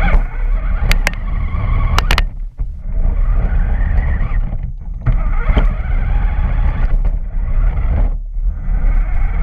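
Remote-control truck driving, heard from an on-board camera: a loud, rough mix of motor and wheel/ground noise that dips briefly about three times as the throttle is eased. Two sharp clicks come about a second apart near the start.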